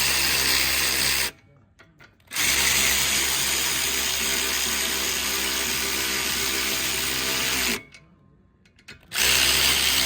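Handheld power driver spinning nuts onto the sway bar bolts. It runs steadily in three bursts, with a short stop about a second in and another near the eight-second mark.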